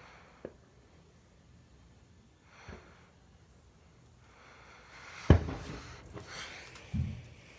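Fireworks going off: a few scattered bangs. The loudest comes about five seconds in and is followed by a second or so of crackling, and another bang comes near the end.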